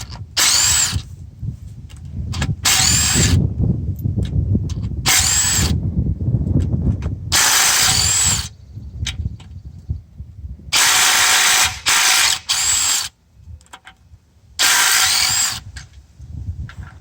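A handheld power tool spinning out the oil pan bolts of a 6.7 Powerstroke diesel engine, in about seven short runs, each rising and falling in pitch as the motor spins up and stops. Low knocks and handling noise between the runs.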